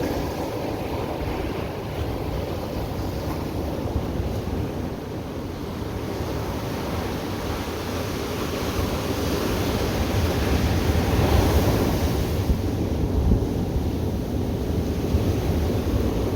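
Ocean surf washing onto the beach, one wave swelling louder and breaking about ten to twelve seconds in, with wind rumbling on the microphone.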